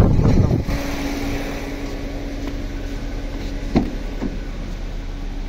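A 2021 Toyota Yaris petrol engine idling steadily, with the A/C switched on but its compressor not engaging. A car door latch clicks open about four seconds in.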